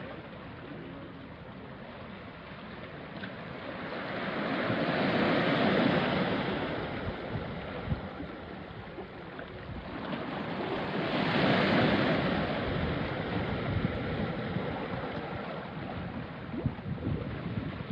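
Small sea waves washing onto a rocky shore: two waves swell up and break, about 6 and 12 seconds in, over a steady wash of water among the rocks with small splashes and trickles.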